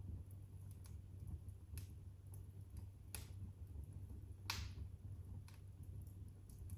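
Wood fire crackling in a fireplace: irregular sharp pops and snaps, the loudest about four and a half seconds in, over a steady low rumble.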